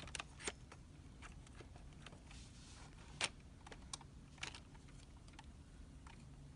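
Light, scattered clicks and taps of small parts being handled as a grapple fork attachment is lined up and fitted onto a toy RC construction truck. The loudest click comes about three seconds in.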